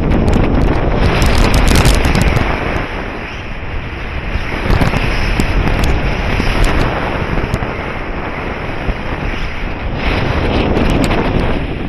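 Wind rushing over the microphone of a paraglider in flight, swelling and easing in gusts, with scattered crackling clicks. It eases off near the end.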